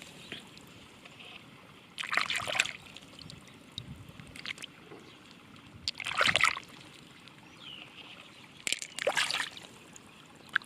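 Water splashing and sloshing in three short bursts, a few seconds apart, with small sharp clicks in each.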